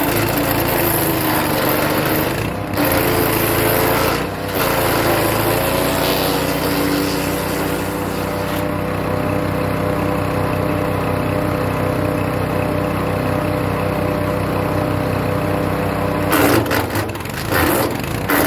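Hecht 6208 wood chipper's engine running while it chews birch branches. Loud crackling chipping in the first few seconds and again near the end comes with the engine pitch sagging and recovering under the load. In between the engine runs steadily with little being fed.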